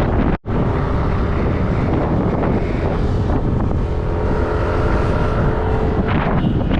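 Wind buffeting the microphone with a motorbike engine running underneath while riding at speed, a faint steady engine whine showing through midway. The sound cuts out for an instant about half a second in.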